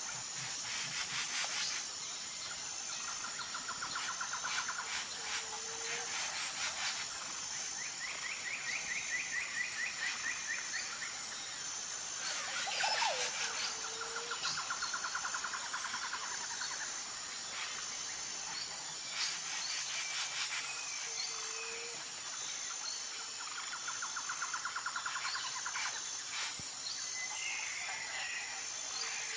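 Outdoor animal chorus: a steady high-pitched insect drone with a pulsing beat. Over it come trilled calls of a couple of seconds each, repeating every few seconds, and bursts of rapid clicking.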